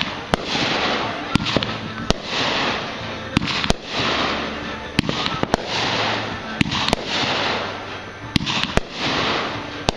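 Aerial fireworks going off in quick succession: about a dozen sharp bangs and pops, irregularly spaced, over a crackling hiss of bursting stars that swells and fades between them.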